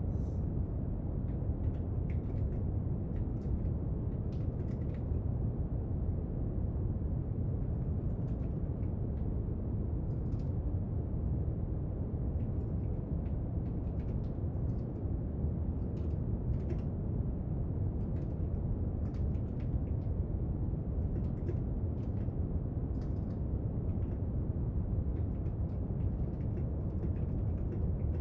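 Steady brown noise, an even low hiss, with faint scattered clicks and taps from someone studying at a desk.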